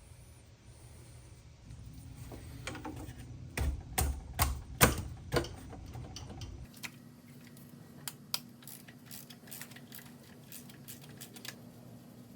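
Metal hand tools clicking and knocking against engine parts while the engine is dismantled, with a run of sharp knocks about four to five and a half seconds in, then lighter scattered clicks and ticks.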